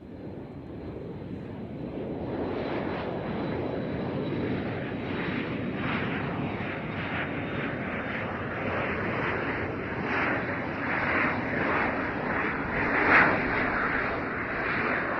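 Jet airliner taking off: engine noise builds over the first couple of seconds, then holds loud and rushing, swelling and easing slightly as the plane speeds up and climbs.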